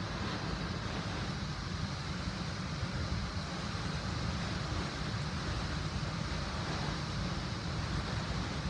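Rainstorm: a steady rush of heavy rain with strong wind buffeting the microphone.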